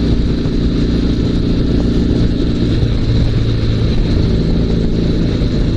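Dnepr MT-16 sidecar motorcycle's flat-twin engine running steadily under way, with a slight change in its note about three seconds in.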